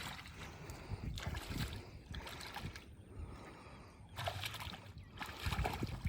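Faint water sloshing and splashing around a small boat, with scattered soft knocks.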